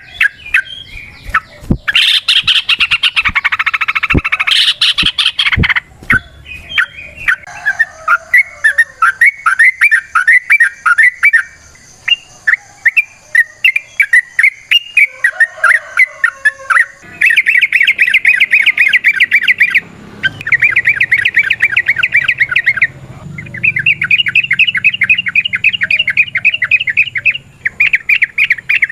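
Yellow-vented bulbul singing: varied chattering phrases at first, then from about halfway through long, fast trills of rapidly repeated notes, the long 'ropel' song.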